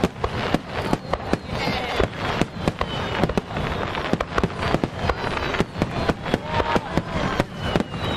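Starmine fireworks display: shells bursting in a rapid, continuous barrage of bangs, several a second, with thin whistles from whistling shells sounding through it.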